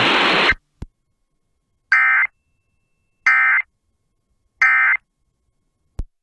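Weather radio: the broadcast hiss cuts off, and then three short, identical digital data bursts sound about 1.3 seconds apart, separated by dead silence. These are the SAME end-of-message code marking the close of a severe thunderstorm warning.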